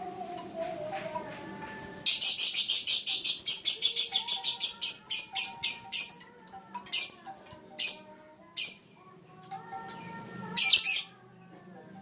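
Lovebird chirping: a fast run of shrill chirps begins about two seconds in, thins out to single calls, and comes back as a short burst near the end.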